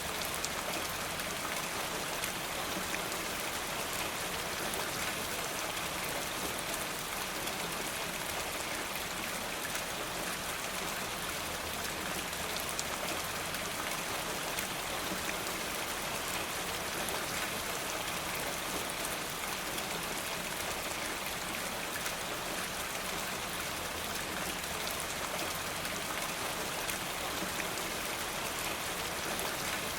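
Steady rain falling, an even hiss of many small drops that does not change.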